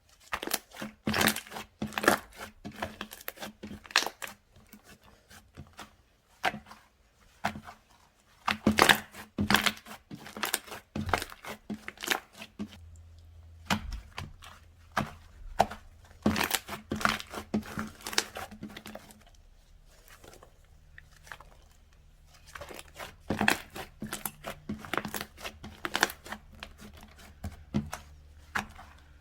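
Slime being kneaded, stretched and poked by hand, giving irregular bursts of crackling, popping and tearing sounds.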